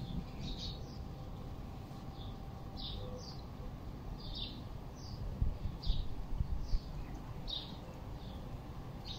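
Small birds chirping, short high chirps repeating about once or twice a second, over a steady low rumble on the microphone with a few louder bumps a little past halfway.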